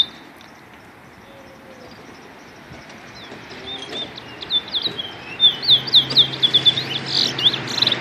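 Caged songbird singing: one sharp high note at the very start, then from about three seconds in a fast run of whistled notes that grows louder and busier toward the end.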